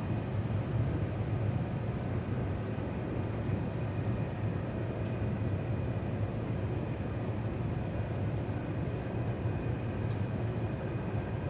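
Steady low rumble inside the cabin of an Airbus A350-900 with Rolls-Royce Trent XWB-84 engines: engine and airflow noise, with a faint thin whine above it. A faint click about ten seconds in.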